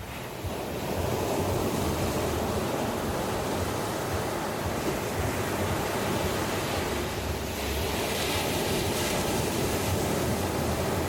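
Sea waves washing onto a beach: a steady rush of surf that swells up within the first second, with a hissier wash of breaking water about eight seconds in.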